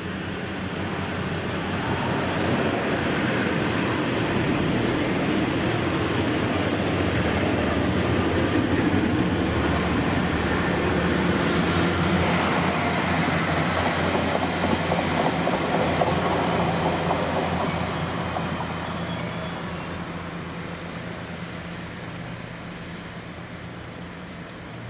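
Diesel train passing on the rail line: its engine and wheels build up over the first couple of seconds, run loud and steady for about fifteen seconds, then fade away as it moves off.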